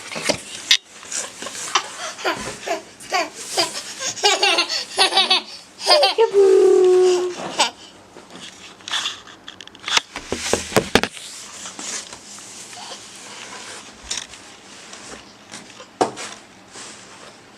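Toddler laughing in repeated bursts of giggles during a game of peekaboo, loudest over the first several seconds. Later come a few short knocks or rustles.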